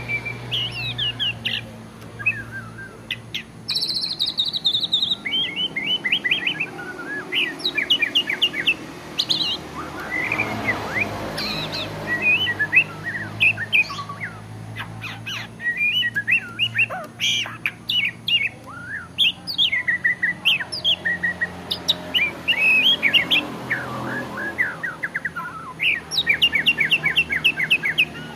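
A murai (Copsychus songbird) singing a long, varied song of rapid chirps, trills and whistles, broken by short pauses. There is a faint steady low hum underneath.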